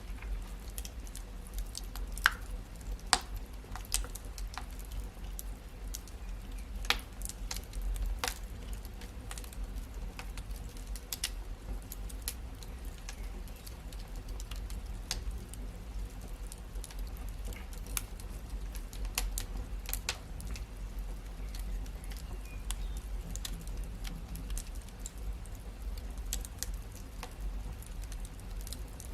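Wood fire crackling in a fireplace: irregular sharp pops and snaps, scattered throughout and a few louder than the rest, over a steady low rumble.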